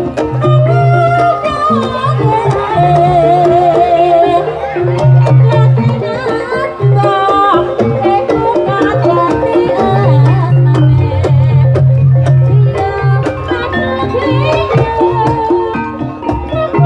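Traditional Javanese folk music played live, with hand-drum strokes over steady held notes and a wavering, ornamented melody line.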